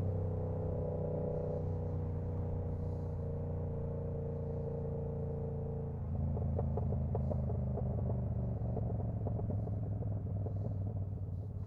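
A 2025 Yamaha R7's CP2 689 cc parallel-twin engine and exhaust running at steady revs while riding, a steady even hum. About six seconds in, the note changes to a rougher, uneven sound.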